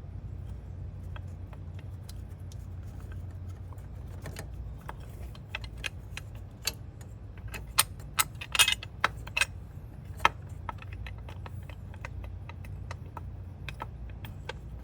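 Loose metal bolts clinking as they are handled and sorted by hand, scattered small clicks that bunch into a run of sharper clinks about eight to ten seconds in, over a steady low hum.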